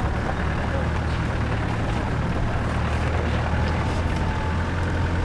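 Off-road vehicle's engine droning steadily with road noise, heard from inside the cabin.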